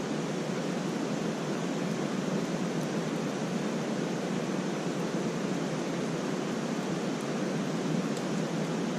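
Wood campfire burning: a steady rushing hiss with a few faint crackles.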